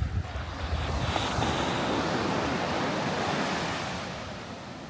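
Sea wave breaking and washing up the beach, swelling about a second in and fading near the end, with wind buffeting the microphone at the start.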